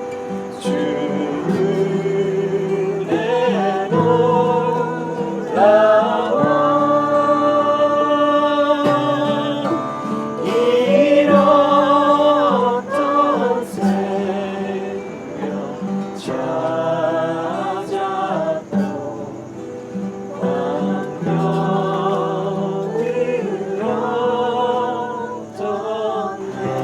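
A small group singing a Korean worship song together, accompanied by a strummed acoustic guitar.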